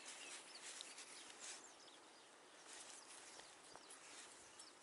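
Near silence: faint outdoor ambience with scattered high chirps of distant birds.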